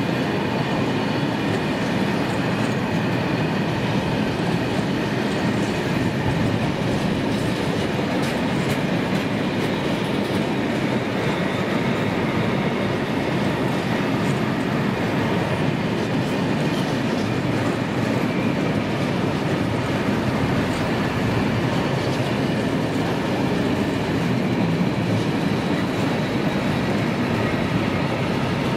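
A train rolling steadily past at close range: a continuous rumble and clatter of wagon wheels on the rails, with faint high ringing tones, for the whole half-minute.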